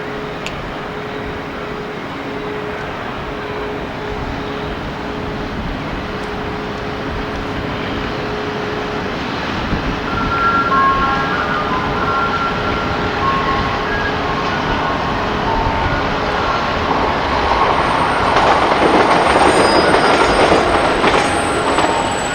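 A freight train hauled by a Brush Class 60 diesel locomotive with a Mirrlees engine, running past with a steady engine hum and growing steadily louder. About halfway in, short high squeals from the wheels on the rails start coming and going, and they are loudest near the end.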